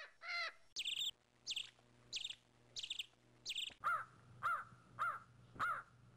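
A bird calling over and over, about one and a half short calls a second; the calls are high-pitched at first and drop to a lower pitch about four seconds in. A faint steady hum lies underneath.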